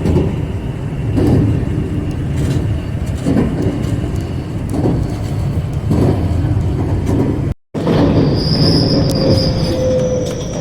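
Train running on the rails, heard from inside a passenger car: a steady low rumble with repeated thumps about every second and a half as the wheels pass rail joints. After a brief dropout near the end, a steady high squeal and a gliding whine join the rumble.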